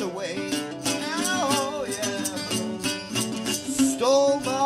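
Guitar strummed in a steady rhythm, with a voice singing drawn-out, wavering notes without clear words, about a second in and again near the end.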